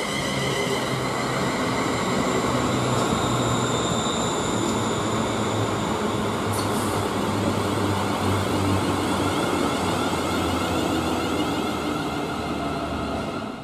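ScotRail Class 380 electric multiple unit running along the station platform: wheel rumble on the rails with steady tones over it. It cuts off suddenly near the end.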